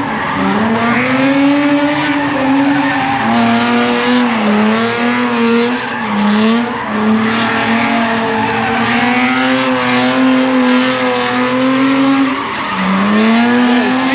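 A car drifting: its engine held high in the revs, wavering and dipping briefly a few times, over a steady skid and squeal of the rear tyres.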